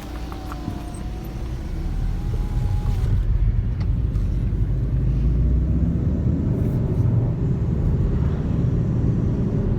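Road and engine noise inside a moving car: a steady low rumble that grows louder after about two seconds.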